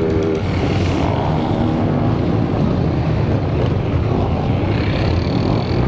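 Motorcycle engines running, a loud, steady engine din with no break; a music track stops about half a second in.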